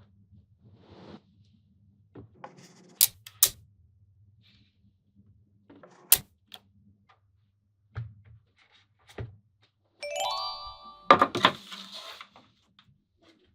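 Small neodymium magnetic balls snapping together with sharp clicks, a few at a time and a cluster near the end. A brief pitched tone sounds just before that last cluster.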